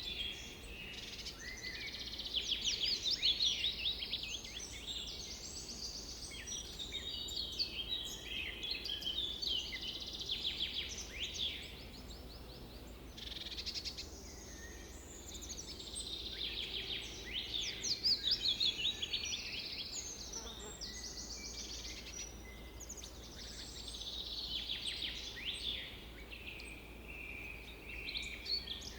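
Several songbirds singing and calling at once: a dense chorus of overlapping chirps and rapid trills, over a faint steady low rumble.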